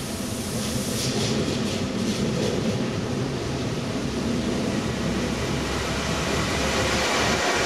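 An ICE high-speed train running into the station along the platform, its running and wheel noise growing steadily louder as it draws close and passes alongside.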